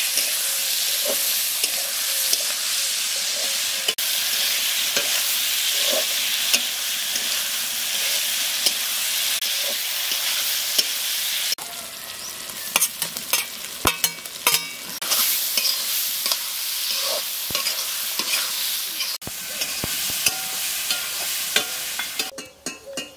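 Prawns and tomatoes sizzling in a metal kadai while a metal spatula stirs and scrapes the pan. The sizzle is strongest in the first half; after that it is quieter, with frequent sharp scrapes and clinks of the spatula against the pan and steel plates.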